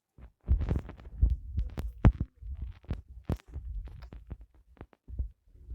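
Irregular clicks and knocks over low thumps, like small objects being handled and set down close to the microphone.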